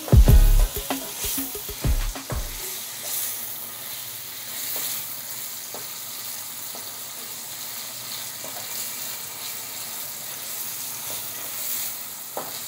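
Chopped tomatoes and green chillies sizzling steadily in hot oil in a steel pan, with a metal spoon stirring and scraping now and then: the tadka frying for dal. Background music fades out about two seconds in.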